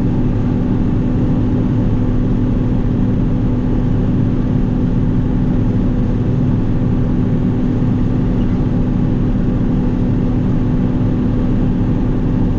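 Combine harvesting corn, its engine and machinery running in one steady, unbroken drone with a constant low hum.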